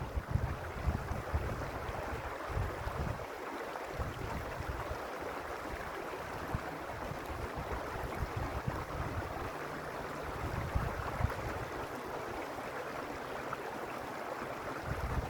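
Creek water running steadily with an even rushing hiss. Low wind rumble buffets the microphone in the first few seconds and again near the end.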